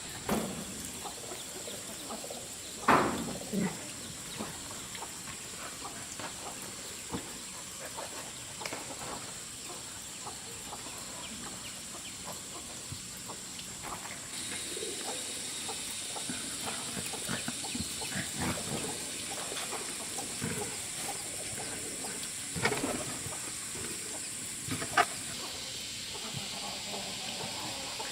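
Chickens clucking and calling, scattered short calls with a louder call about three seconds in and a couple more near the end, over a steady high-pitched hiss that grows stronger in the middle stretch.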